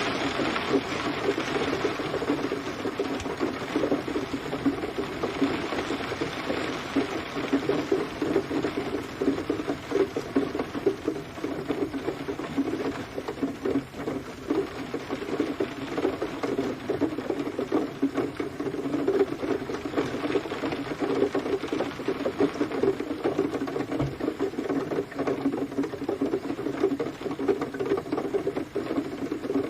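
Steady rain pattering, an even, dense rush of countless small drops with no letup.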